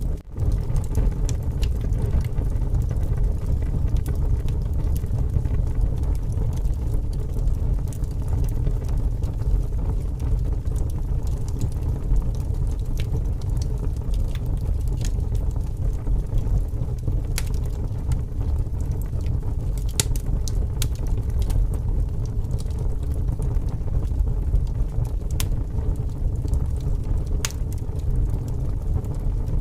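Strong wind blowing with a steady low rumble over a burning wood fire that gives scattered sharp crackles and pops. The sound cuts out for an instant right at the start.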